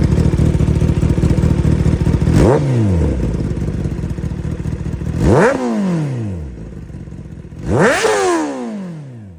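2025 Kawasaki ZX10R's inline-four engine, fitted with an M4 GP19 slip-on exhaust, idling warm and then revved three times, each rev rising sharply and dropping quickly back to idle.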